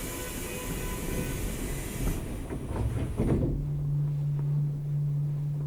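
Seoul Subway Line 9 train just after its doors have closed: a loud hiss of air for the first two seconds, then rumbling with a few knocks. About three and a half seconds in, a steady low hum takes over and holds at one pitch.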